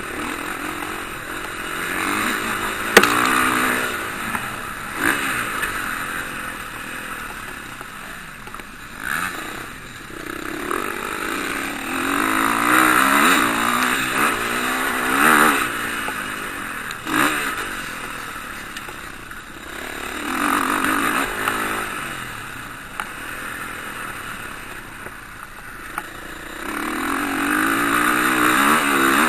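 Motocross bikes racing past, engines revving up and down as they pass in waves, with a sharp clack about three seconds in.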